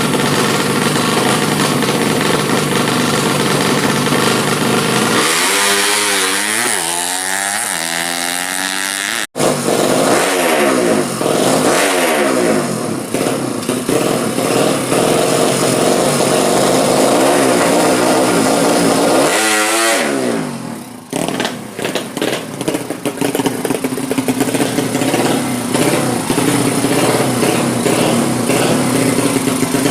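Drag-spec, full-compression Yamaha Jupiter motorcycle engine running loud and being revved, its pitch sweeping up and down several times. The sound cuts out for an instant about nine seconds in.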